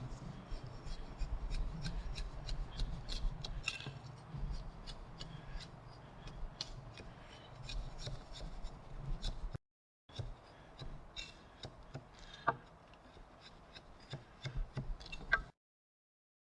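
Hand chisel paring and scraping wood from the wall of a timber mortise: a run of small irregular clicks and scrapes, broken twice by short cuts to dead silence.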